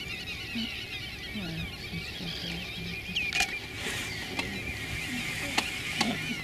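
Birds calling in a continuous high, warbling twitter, with short low repeated calls about a second in and a few sharp clicks.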